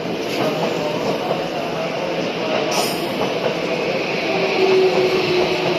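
Tokyo Metro 13000 series electric train pulling into the platform and braking, with a steady rumble of wheels on rail. A motor tone slowly falls in pitch over the second half as the train slows, and a brief high click or hiss comes about three seconds in.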